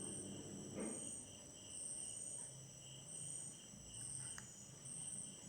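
Faint chorus of crickets chirping in steady, evenly pulsing trills, with a soft knock or two.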